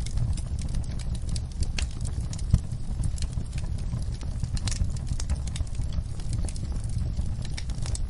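Campfire crackling: irregular sharp pops and snaps over a steady low rumble, with one louder pop about two and a half seconds in.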